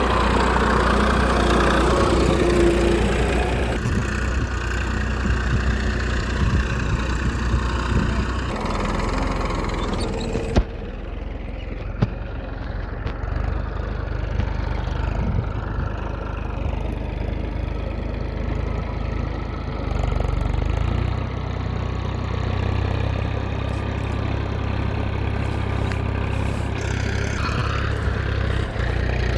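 Small engine of a mini dumper running steadily at a low idle-like speed. Its sound changes abruptly a few times, and there are two sharp clicks near the middle.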